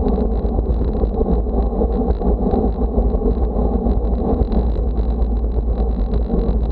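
Strong wind buffeting the microphone, a constant low rumble, over a steady rush of road noise.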